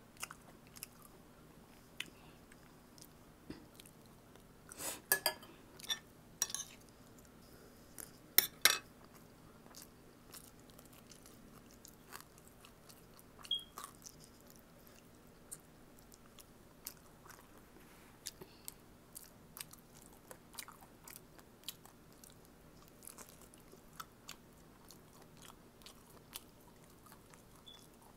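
Close-miked chewing and biting of boiled pork and vegetables, with many small wet mouth clicks. A few sharper, louder clicks and crunches come in the first nine seconds.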